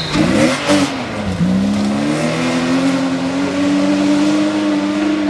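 Rally car engine at high revs. The revs dip and pick up twice in the first second and a half, then climb and hold a steady high note.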